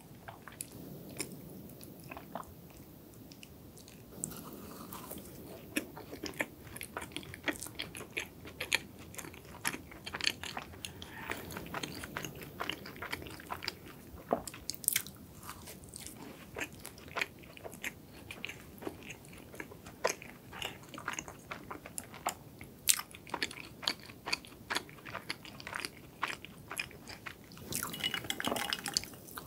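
Close-miked eating sounds of someone biting and chewing a soft cream-filled donut topped with crushed pistachio: wet chewing dotted with many small crunchy clicks. Near the end comes a brief louder stretch as a glass of iced coffee is picked up.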